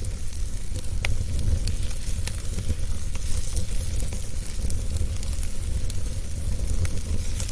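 Wood fire burning in a fireplace: a steady low rumble and hiss of flames with irregular sharp crackles and pops, several a second.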